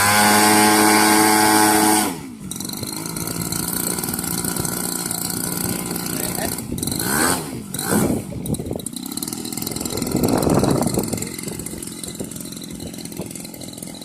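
28cc two-stroke grass-cutter engine on a homemade RC plane running at full throttle with a steady high pitch, dropping sharply in level about two seconds in. It then runs on more quietly, its pitch rising and falling several times and swelling again near the ten-second mark before fading.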